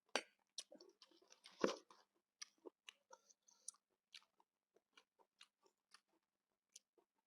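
A person chewing food close to the microphone: a string of short, irregular mouth clicks and smacks, with one louder noise about one and a half seconds in.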